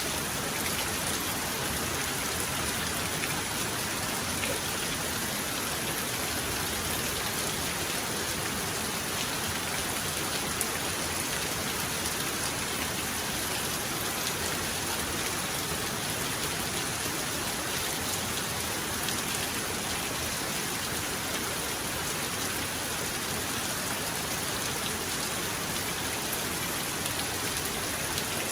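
Heavy rain falling steadily, an even unbroken hiss with no rumble of thunder.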